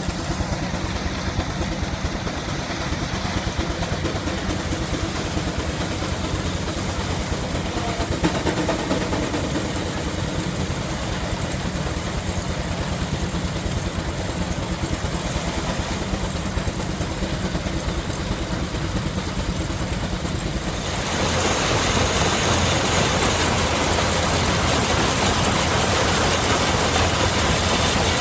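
A steam traction engine driving a threshing machine by a long belt, both running steadily. About three-quarters of the way through, the sound steps up louder, with more high-pitched noise.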